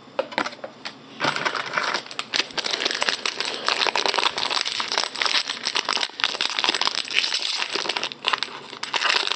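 Card pack wrapper crinkling and crackling, with many small clicks of cards being handled, as a new pack of trading cards is torn open and sorted. It starts about a second in and goes on steadily.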